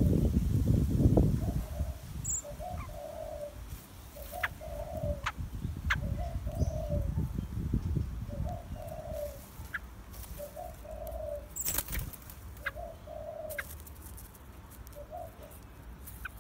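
A dove cooing over and over, a short low coo about every second and a half. A low rumble sits under the first couple of seconds and again around the middle.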